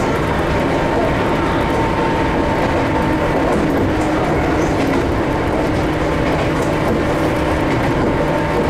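Ohmi Railway 800 series electric train running between stations at steady speed, heard from inside: wheel and track rumble with a steady hum.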